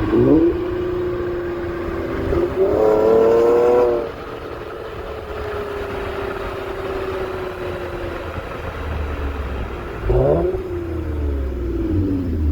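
Toyota Camry XSE 3.5-litre V6 with a Magnaflow exhaust and AEM cold air intake, revving hard. The exhaust note climbs in pitch about three seconds in, then falls away slowly. A second short burst of revs comes about ten seconds in and drops off again.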